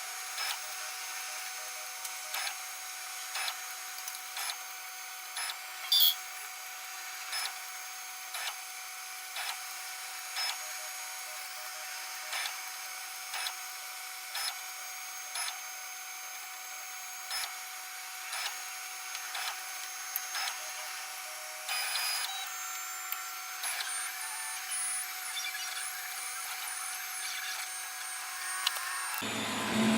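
Homemade large 3D printer running: its stepper motors give a steady whine, with a short click about once a second.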